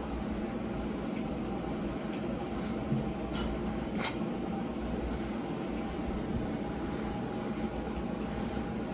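Steady mechanical room hum, with a few faint clicks about three to four seconds in.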